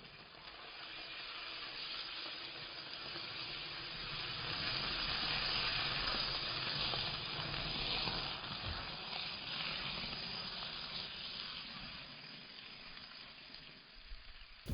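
Hot margarine sizzling and spattering in a frying pan over a wood fire. The hiss swells over the first few seconds, is loudest midway, then slowly dies down.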